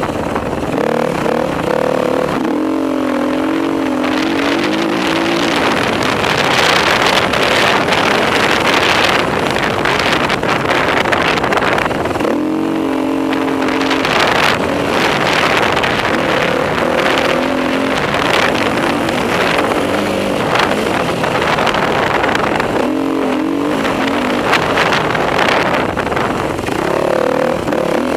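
Enduro motorcycle engine being ridden hard, its pitch rising and falling as the throttle is opened and closed and through gear changes, under a constant rushing noise.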